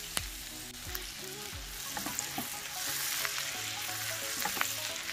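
Garlic and ginger sizzling in melted butter in a pan, with several sharp clicks of a utensil stirring against the pan. The sizzle grows louder about three seconds in.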